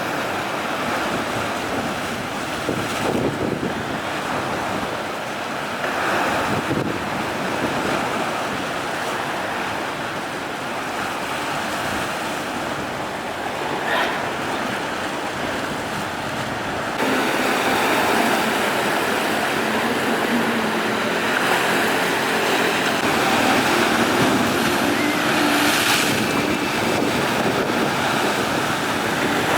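Rough sea waves surging and breaking, with strong wind buffeting the microphone in a steady rush. About halfway through the sound shifts and grows louder, and a faint low hum joins in.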